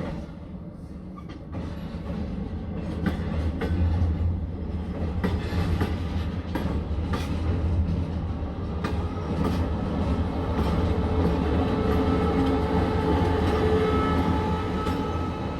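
Passenger train wheels running over the rails, heard from inside the carriage: a steady low rumble with irregular sharp clicks from the rail joints, growing louder over the first few seconds.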